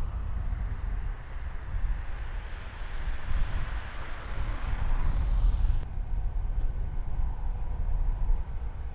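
Freeway traffic noise with wind rumbling on the microphone; a vehicle's tyre hiss swells over several seconds and breaks off abruptly about six seconds in.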